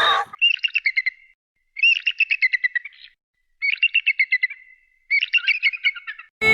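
A small songbird singing four short phrases, each a fast run of about eight to ten high chirps lasting around a second, with short pauses between.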